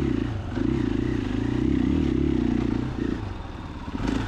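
2021 KTM 500 EXC-F's single-cylinder four-stroke engine under throttle on a climb, its revs rising and falling. The throttle eases off briefly just before a second in, then drops back again about three seconds in.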